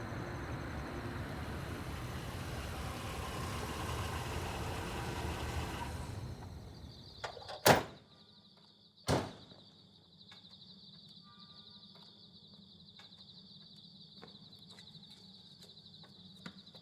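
Low vehicle rumble for about six seconds that fades out, then two sharp door bangs about a second and a half apart. After that comes a quiet stretch with a steady high chirring and a few faint clicks.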